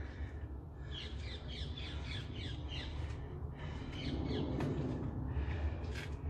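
A bird squawking in a quick run of short, falling calls, over a steady low hum.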